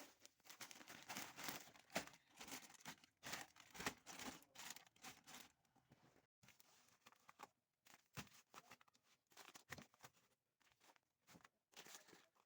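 Faint rustling and crinkling of plastic grocery bags and packaging being handled, in irregular bursts with short pauses.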